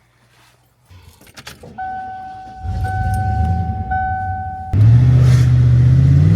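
Keys jingle, then a vehicle's warning chime beeps steadily while the starter cranks the engine. After a few seconds the engine catches and runs at a loud, steady idle, rising slightly in pitch near the end.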